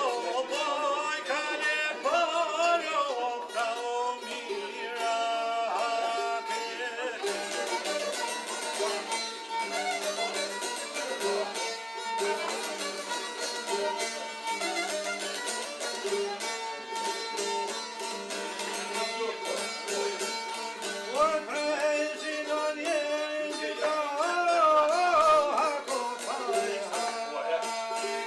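Traditional folk music played on string instruments, with a wavering melody line that stands out near the start and again about three-quarters of the way through.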